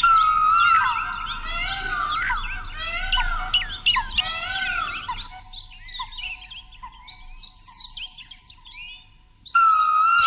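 Birds chirping and twittering in a dense chorus of quick rising and falling call notes, thinning out after about five seconds. Shortly before the end a different steady pitched sound of several held tones cuts in suddenly.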